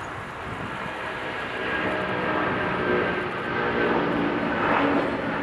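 Jet airliner engines running, growing louder about a second and a half in as the aircraft comes closer, with a steady whine over a lower hum.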